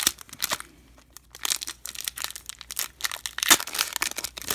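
Wrapper of a Topps baseball card pack crinkling and tearing as it is opened, in quick irregular crackles with a sharper crack about three and a half seconds in.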